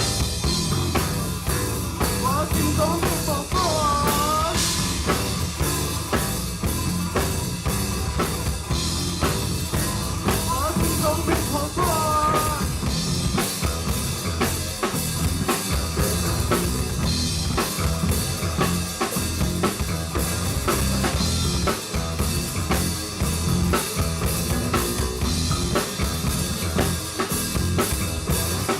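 Rock band playing: a busy drum kit with snare rimshots and bass drum over bass and guitar, with sliding lead lines a few seconds in and again around twelve seconds in.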